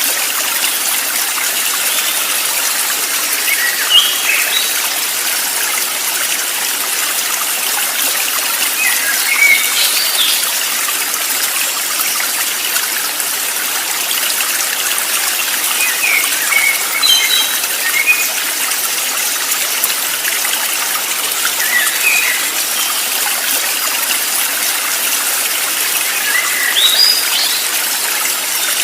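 Running water of a stream as a steady rush, with short high bird chirps every five seconds or so.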